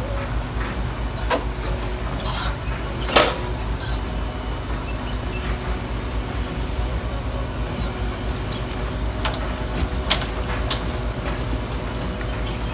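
Garbage truck engine running steadily, with scattered sharp knocks and clanks; the loudest comes about three seconds in.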